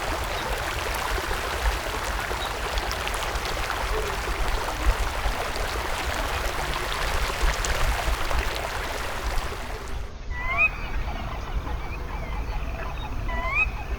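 A steady rushing noise like running water. After an abrupt change about ten seconds in, backyard birds give several short whistled calls that slide up in pitch.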